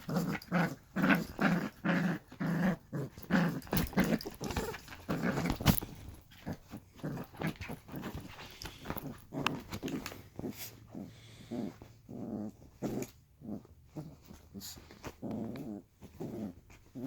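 Puppy giving short play growls over and over, about two a second. They are louder in the first few seconds and then quieter and more scattered.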